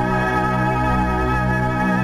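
Background music with sustained organ-like keyboard chords over a slow-moving bass line.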